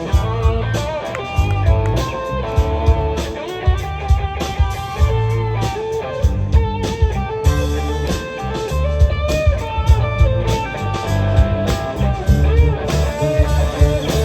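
Live band playing an instrumental passage: guitar over bass and a steady drum beat.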